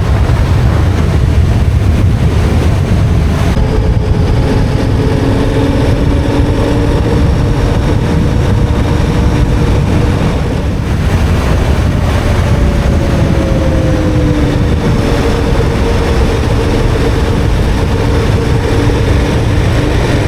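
KTM 1290 Super Adventure R's V-twin engine running steadily while under way, with a deep rumble and a steady hum whose pitch drifts slightly now and then.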